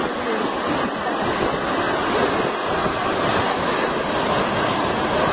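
Heavy rain falling, a steady loud hiss with no breaks.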